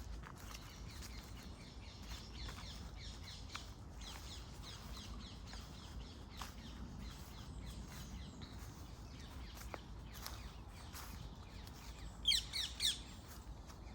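Birds chirping and calling, with a louder burst of three quick, sweeping high notes near the end, over a steady low background rumble.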